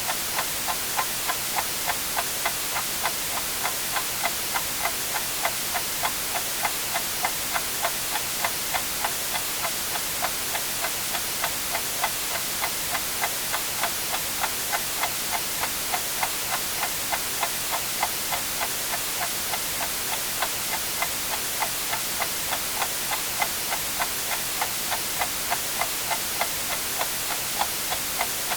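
Clock ticking evenly, about twice a second, over a steady bed of white-noise hiss.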